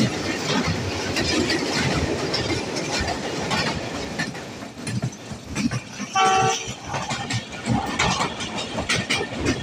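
Passenger train running along the track, its wheels clattering over the rail joints. A short horn blast sounds about six seconds in.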